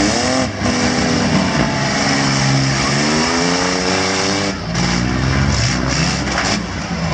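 Several mid-size six-cylinder demolition-derby cars' engines revving, their pitch rising and falling, with a few sharp knocks after the middle.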